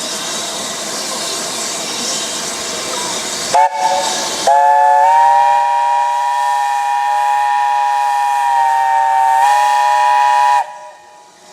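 Steam locomotive hissing, then sounding its whistle: a short blast, then a long blast of about six seconds that steps slightly up in pitch near the end and cuts off sharply. The locomotive is BR Standard Class 7 'Britannia' 70000.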